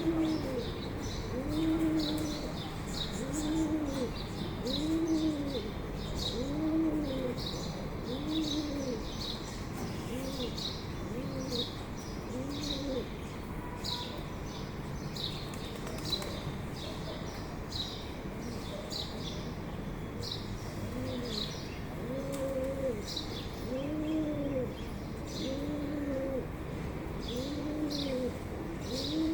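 Forest ambience: a bird repeats a low hooting note that rises and falls, about once a second, with a pause of several seconds midway, over a steady patter of short high chirps.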